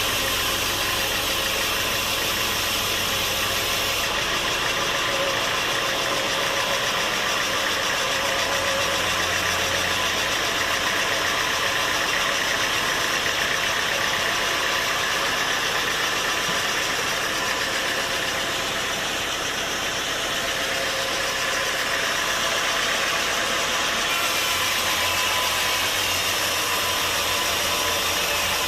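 Sawmill machinery running steadily: a loud, engine-like drone under a dense hiss. The tone shifts abruptly about four seconds in and again near the end.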